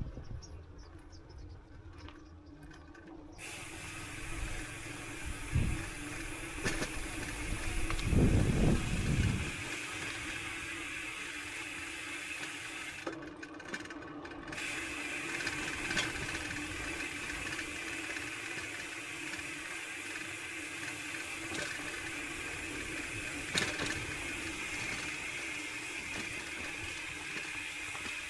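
Mountain bike riding on a trail: a steady hiss and whir of tyres and the freehub ticking while coasting, which stops for a moment around thirteen seconds in. A few low thumps from bumps in the trail, the loudest a rumble about eight seconds in.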